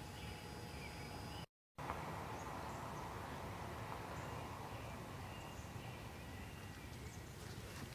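Corn LED light fixture giving off a faint, steady electrical buzz and whine. The sound drops out completely for a moment about a second and a half in. Faint short chirps come and go in the background.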